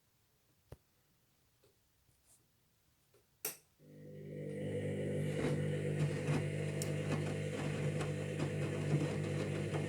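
Candy Grand'O Vita washing machine during its pre-wash: after a few quiet seconds and a sharp click, its motor starts up about four seconds in and settles into a steady hum with light rattling.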